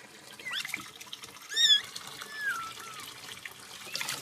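Water trickling, as from a running tap, with a few short high-pitched squeaky calls over it, the loudest about halfway through.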